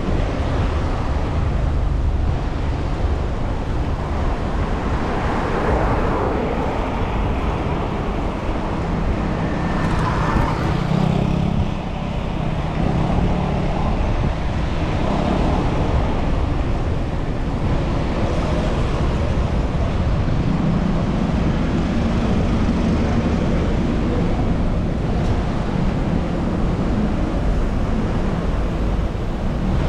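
City road traffic: a continuous rumble of vehicles, with engines swelling as they pass about ten seconds in and again around twenty seconds in.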